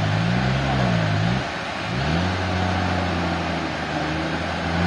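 An engine changing speed, its pitch swinging up and down for the first second and a half, then running steadily at one pitch over a constant hiss.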